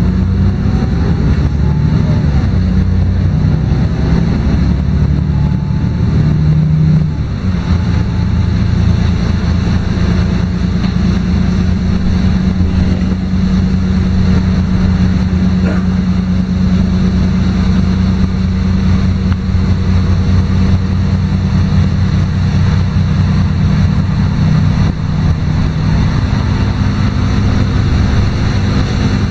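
LiAZ-5292 city bus's diesel engine running steadily as the bus drives, heard from inside the passenger cabin, with its note shifting about seven seconds in.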